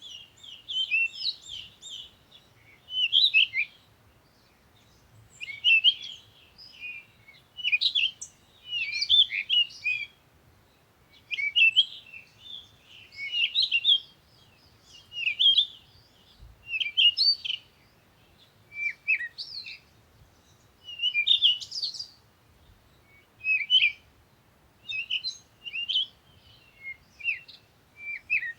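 Songbirds singing: short, quick phrases of high twittering chirps, repeating every second or two with brief pauses between.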